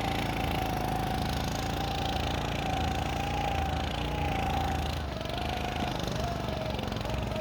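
Motor snow scooter's small engine running steadily under way, with a wavering whine above the engine note that dips slightly about five seconds in.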